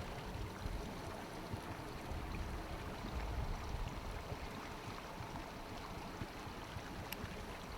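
Faint, steady outdoor background noise with a low, uneven rumble and a single faint click about seven seconds in.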